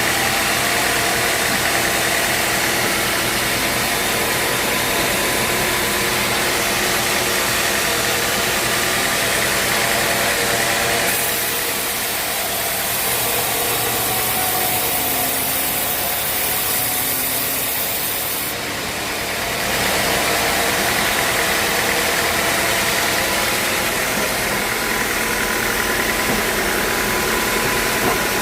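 Sawmill machinery running steadily with an engine-like hum and broad noise; for several seconds midway the level dips a little and a high hiss comes in, then the earlier sound returns.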